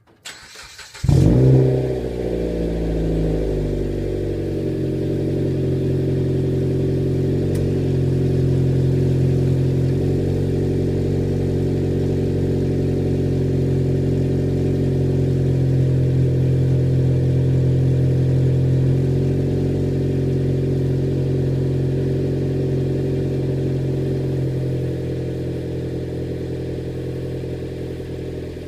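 2011 Mitsubishi Lancer DE's 2.0-litre four-cylinder starting up through a muffler-deleted exhaust, the rear muffler replaced by a straight pipe and tip: a brief crank, a loud flare of revs about a second in, then a steady idle that eases down slightly near the end.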